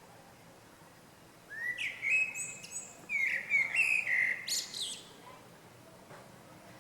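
A small songbird singing one phrase of varied chirping notes. It starts about a second and a half in and lasts about three and a half seconds.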